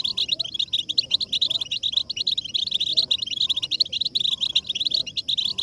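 A flock of European goldfinches chattering together: a dense, unbroken stream of rapid, high twittering calls, the group mating and readiness calls used to stir male goldfinches into song.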